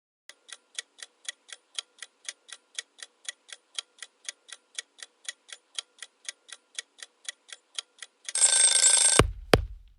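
Clock-ticking sound effect counting down, about four even ticks a second. Near the end an alarm bell rings for about a second, followed by two sharp knocks, marking time up.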